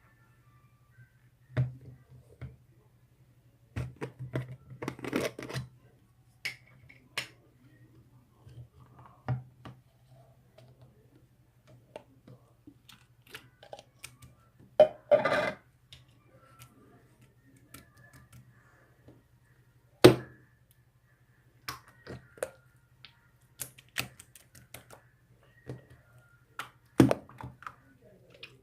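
Irregular clicks and knocks, like small objects being handled or keys being tapped, over a steady low hum. A louder, short sound with some pitch to it comes about halfway through.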